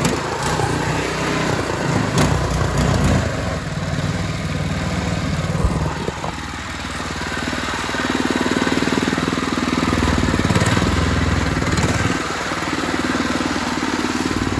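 Small single-cylinder gas engine of a boat's mud motor running steadily, its speed rising about eight seconds in and dropping back about four seconds later.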